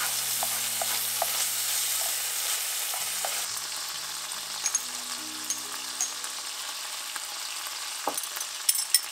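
Chopped cherry tomatoes frying in oil in a pan: a steady sizzle that eases a little after about three seconds, with scattered light clicks of a utensil stirring against the pan.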